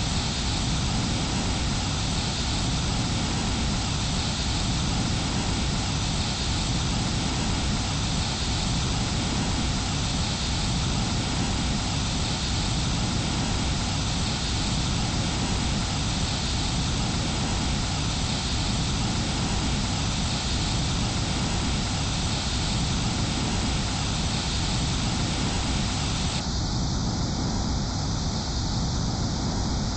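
Airbus A320 airliner: a steady jet roar of engines and rushing air, holding the same level and pitch throughout.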